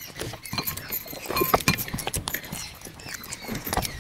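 Eating sounds: chewing and irregular wet lip smacks and mouth clicks as rice and dalma are eaten by hand.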